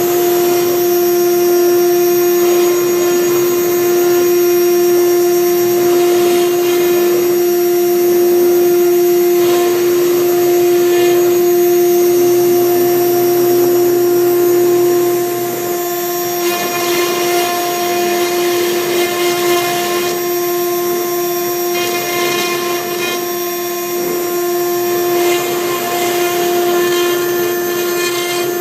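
Spindle of a 6090 CNC router running with a steady whine while its V-bit engraves MDF. About halfway through, the sound gets a little quieter and rougher.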